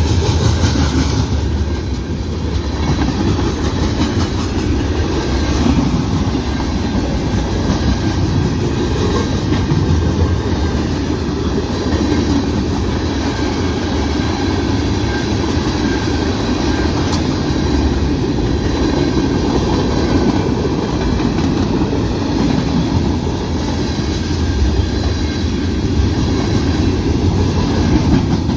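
Cars of a CN mixed-freight train rolling past, a steady loud rumble of wheels on rail.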